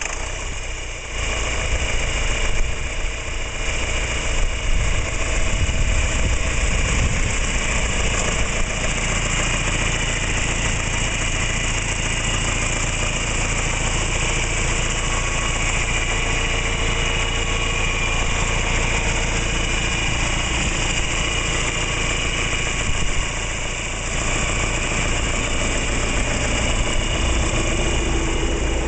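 John Deere 3020's four-cylinder diesel engine running steadily at idle.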